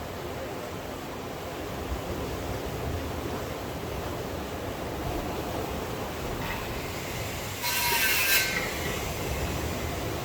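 Steady rush of rain and sea surf, with a louder burst of hissing noise lasting about a second near the end.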